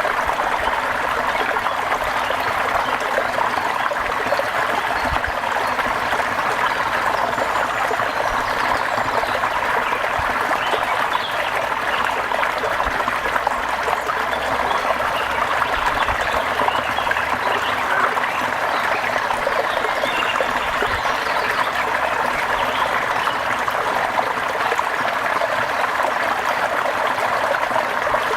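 Steady rain falling, a continuous even hiss of water with no pauses.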